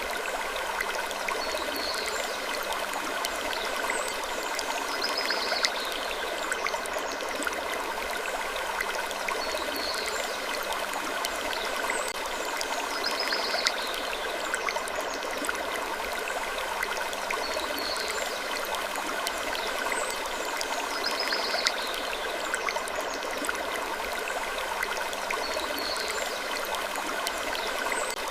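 Wood creaking over a steady rushing, water-like background. Short, high, falling creaks come round again about every eight seconds, as in a loop.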